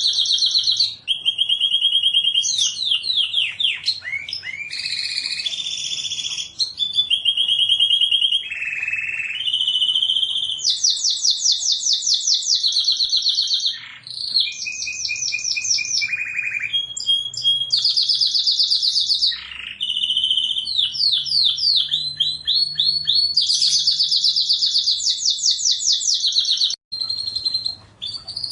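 Domestic canary singing a long, continuous song of rapid high trills, switching from one trill to the next every second or two, with some quick rising and falling glides between them.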